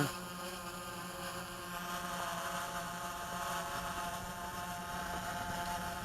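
DJI Phantom 3 Advanced quadcopter's propellers and motors humming steadily in flight, a layered tone of several pitches held without change.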